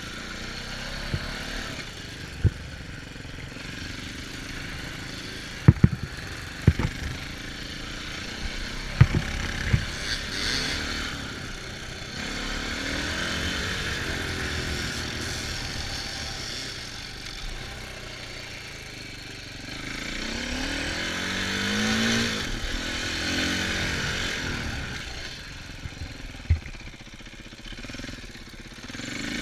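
Dirt bike engine running and revving up and down while riding, its pitch climbing and falling repeatedly, with several sharp knocks scattered through.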